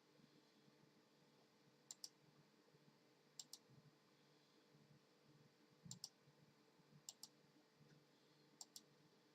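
Faint sharp clicks in quick pairs, five pairs about one to two and a half seconds apart, over near silence.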